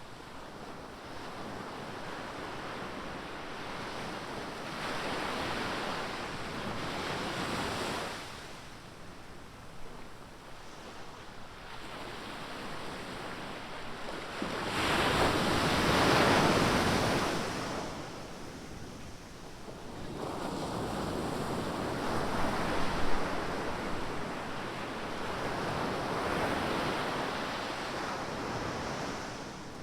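Ocean surf: waves breaking and washing up the beach in slow surges, the loudest crash about halfway through, with wind buffeting the microphone.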